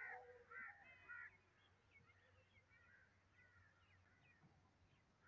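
Faint bird calls: three short calls close together in the first second and a half, then scattered fainter chirps.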